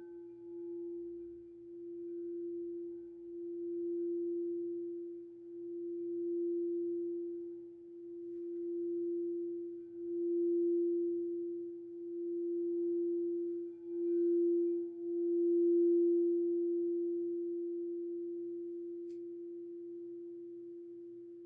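A crystal singing bowl sounds one pure, steady tone that starts suddenly. The tone swells and dips in slow waves every couple of seconds, grows louder, and then fades slowly over the last few seconds.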